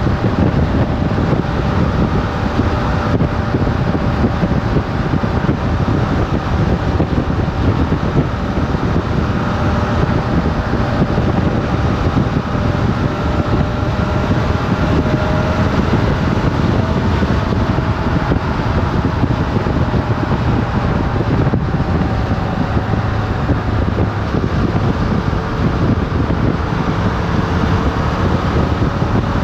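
Motorcycle engine running at a steady cruising speed with a heavy rush of wind over the helmet-mounted action camera's microphone; the engine note drifts slightly in pitch without any hard revving.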